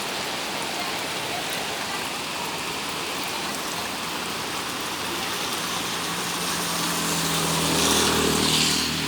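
Heavy rain falling steadily. In the last few seconds a motor vehicle passes, its engine hum and tyre hiss growing louder near the end.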